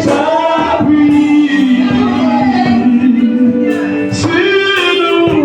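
Worship music: singing in long held notes over instrumental accompaniment.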